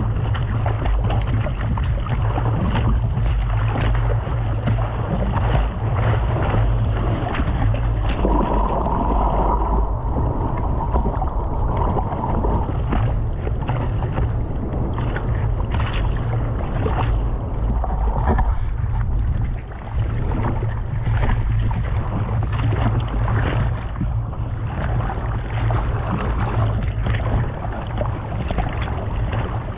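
Steady low engine-like rumble with wind noise on the microphone, and a brief steady tone about eight seconds in.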